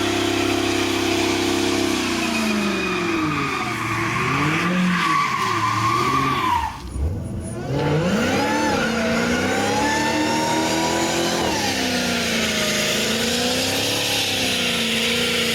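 Car engine revving hard with tyres squealing, the engine pitch rising and falling again and again, with a short drop about seven seconds in.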